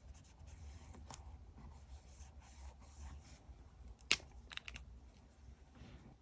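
Quiet handling of paper and stationery during diary decorating: soft rustles and small clicks, with one sharp click about four seconds in and a few lighter ones just after.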